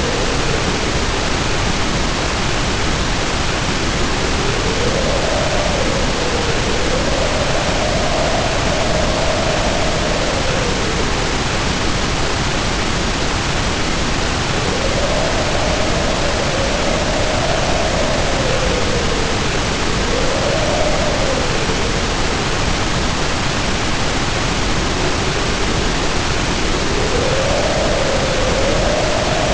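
Heavy rain pouring steadily under wind howling. The howl swells and falls away in slow waves, its pitch rising and dropping every few seconds.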